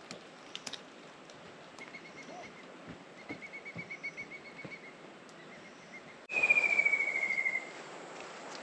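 Bird calling in rapid trills, each a quick run of even notes: a faint steady trill in the first half, then about six seconds in a louder trill that slides slightly down in pitch over a soft outdoor hiss.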